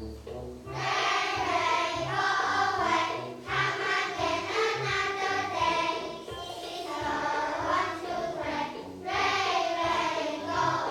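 A class of first-grade children singing an English nursery song together as a choir over musical accompaniment, in phrases separated by short breaths.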